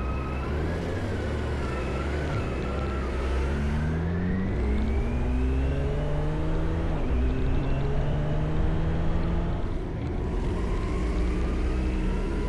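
Vehicle engine pulling away and accelerating on the road, its pitch climbing, holding, then dropping about ten seconds in at a gear change before climbing again. A wavering siren fades out in the first couple of seconds.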